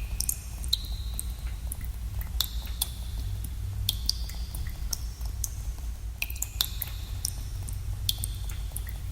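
Water drops falling irregularly into water in a cave, about ten in all, each a sharp plink with a short ringing tone and some echo, over a steady low rumble.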